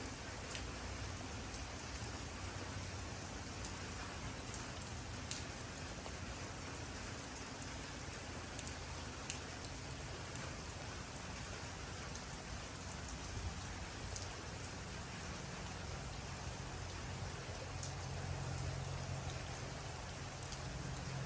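Steady rain falling, a dense even hiss with occasional sharper drop taps. A low rumble underneath grows a little louder near the end.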